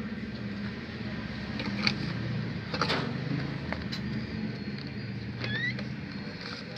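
A steady low motor hum, like an engine running, with a few short sharp calls or clicks and one brief upward whistle about five and a half seconds in.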